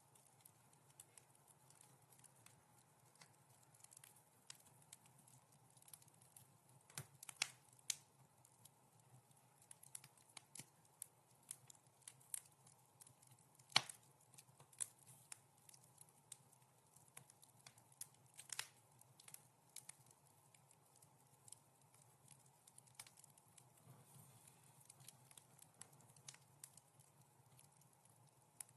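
Wood fire in a fireplace crackling softly: irregular sharp pops and snaps over a low, steady background. The loudest single pop comes about halfway through.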